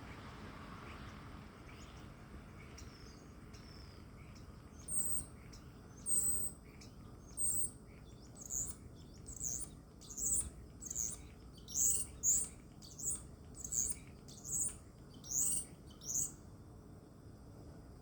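Bird, taken for a European starling, giving a run of about fourteen short, high whistled notes, each sweeping in pitch, about one a second; these are the ambulance-like calls of a mimic. The run stops about two seconds before the end.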